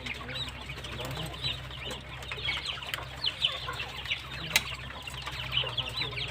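A group of baby poultry chicks peeping continuously, a busy chatter of short high peeps, over a steady low hum. A single sharp click sounds about four and a half seconds in.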